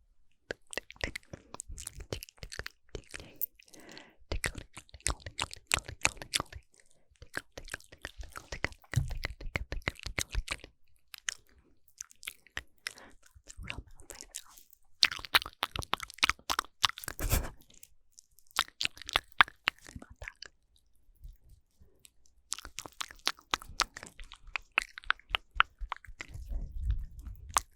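Close-miked ASMR mouth sounds: dense runs of wet clicks and smacks lasting a few seconds each, broken by short pauses, some with a low bassy thump.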